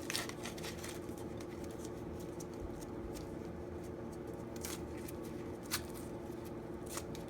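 Faint paper rustling and a few light ticks as a bar of Ivory soap is unwrapped from its paper wrapper, over a steady low hum.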